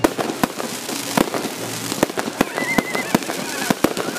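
Fireworks going off: a quick, irregular run of sharp bangs and crackles, about a dozen reports, one after another.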